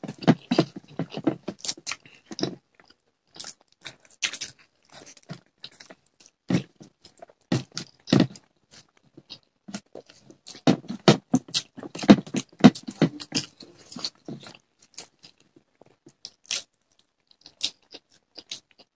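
Close-miked chewing and wet lip-smacking of people eating rice by hand: irregular clusters of short clicks, busiest near the start and again in the middle, with quiet gaps between.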